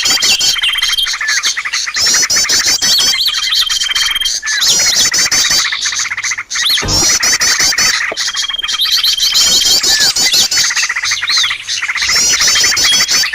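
Bird-lure recording of many small birds chirping and trilling rapidly together, with high, fast chirp phrases and a level trill that recur every few seconds as if looped.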